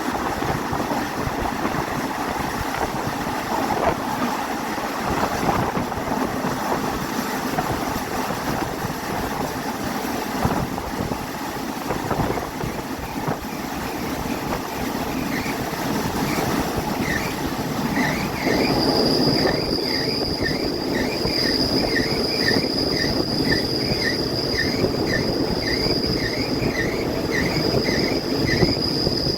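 Passenger train running along the line: a steady rumble of wheels and carriages. About halfway through, a steady high whine joins in, with a short chirp repeating a little more than once a second.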